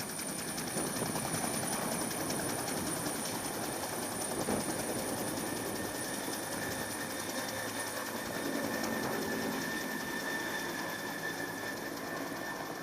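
Helicopter running steadily: a continuous mechanical drone with a fast, even pulsing and a thin high whine.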